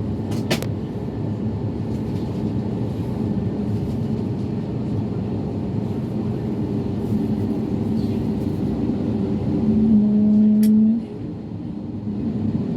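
Steady low engine rumble. About ten seconds in, a loud low buzzing tone lasting about a second cuts off suddenly.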